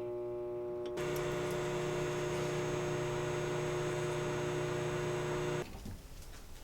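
Microwave oven running: a steady electrical hum that steps up louder about a second in as the heating kicks in, then stops abruptly near the end.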